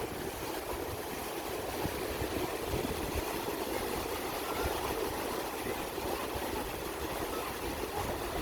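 Steady rushing of sea surf, with a flickering low rumble underneath.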